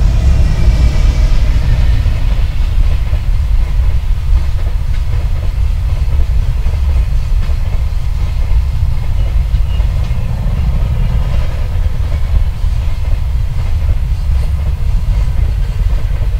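JR Freight EH500 electric locomotive passing close by, its whine falling in pitch over the first couple of seconds, followed by a long string of container wagons running past on the rails with a steady low rumble.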